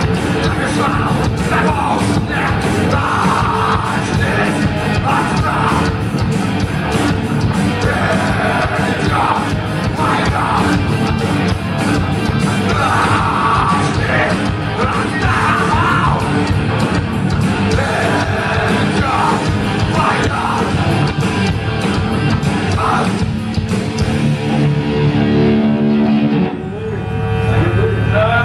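Thrash metal band playing live: distorted guitars, fast drumming and shouted vocals. Near the end the drums drop out briefly and a held chord rings on.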